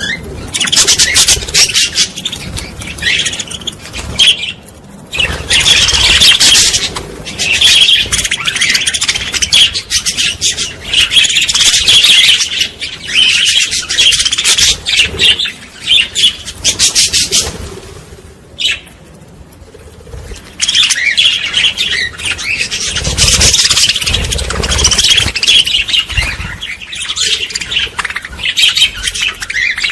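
A group of small birds chirping and twittering busily, with dense, rapid high notes overlapping one another. The chatter drops away briefly a little after halfway, then picks up again.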